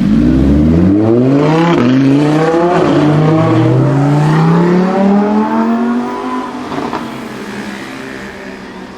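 Audi R8 V10 Plus's 5.2-litre V10 through a Capristo exhaust, accelerating hard: the engine note climbs, drops back at two quick upshifts and climbs again. After about six seconds it fades as the car pulls away.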